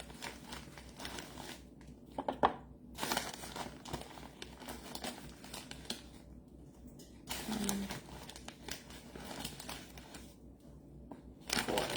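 Crinkling, rustling and small scraping clicks as brown sugar is scooped and packed into a tablespoon, coming in uneven spells with a few short pauses.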